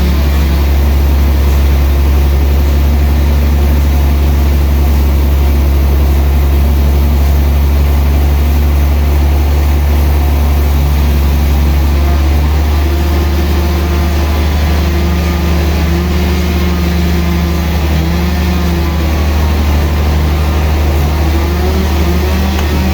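Engine-driven sawmill running steadily with a deep hum, its pitch wavering a little under load about halfway through.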